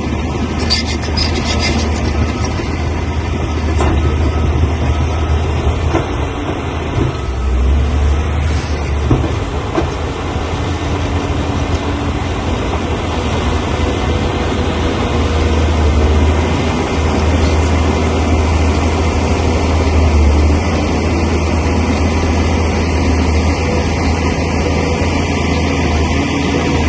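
Crawler bulldozer's diesel engine running steadily under load with a deep hum, and the clatter of its steel tracks, with a few short knocks near the start and again about six to nine seconds in.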